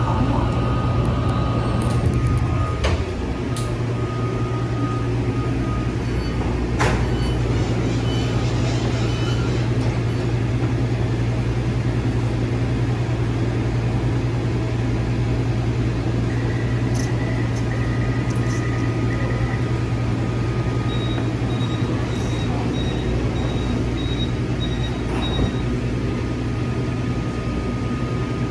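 Taichung MRT metro train running between stations: a steady low hum over running noise, with a couple of sharp clicks about three and seven seconds in.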